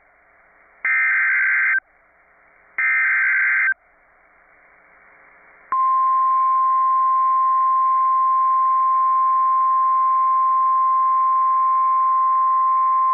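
Emergency Alert System signal on weather radio: two harsh, buzzing SAME data-header bursts about a second long and a second apart. Then, about halfway through, the steady single-pitch 1050 Hz NOAA Weather Radio warning alarm tone comes on and holds, announcing a severe thunderstorm warning.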